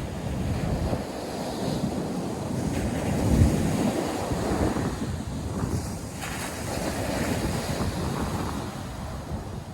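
Ocean surf breaking on a sandy beach, a steady rushing wash with wind buffeting the microphone. The surge is loudest about three and a half seconds in.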